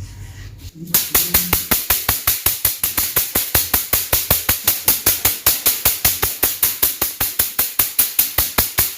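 Rapid, evenly spaced percussion strokes on a patient's back, about five a second, beginning about a second in: manual knocking (stuk) therapy for a lumbar disc hernia.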